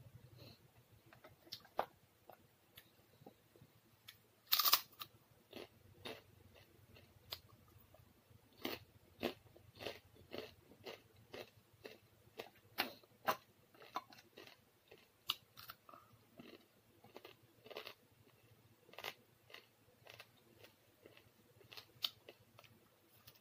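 Close-miked chewing and crunching of crisp fried food eaten by hand, in short sharp crunches about one to two a second, loudest about four and a half seconds in.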